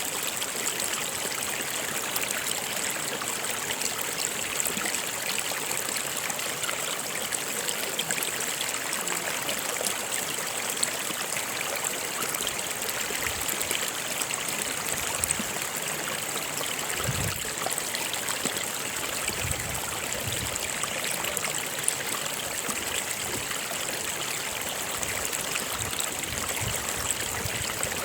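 A stream flowing over rocks: steady rushing and trickling water, with a few brief low gurgles in the second half.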